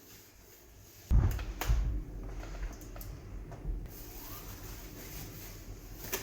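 A sudden heavy thump about a second in, followed by a few lighter knocks and then quieter handling and rubbing noises, like something being moved or set down in a small room.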